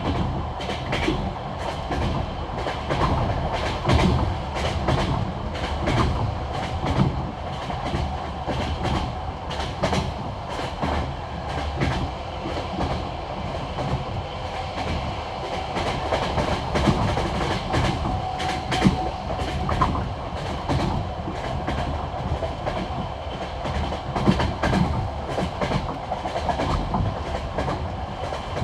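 Passenger train wheels clattering over the rail joints of old jointed track, the classic clickety-clack, with a steady rolling rumble beneath repeated sharp clicks.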